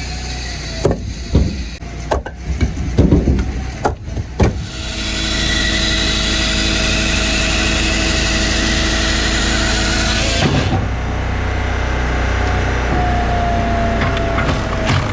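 Firewood processor running, its engine and hydraulics giving a steady drone. Several sharp wooden knocks come in the first few seconds. Then, for about six seconds, a loud hissing cut of the processor's saw through a log, which stops abruptly; near the end a whine in the drone rises and falls.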